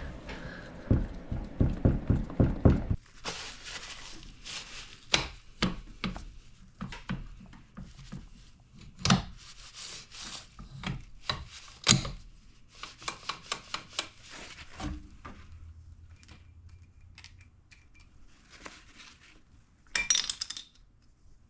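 Metal engine parts and hand tools being handled and fitted: scattered clinks, taps and rubbing. A quick run of low knocks comes in the first few seconds, and a short burst of rapid clicking comes near the end.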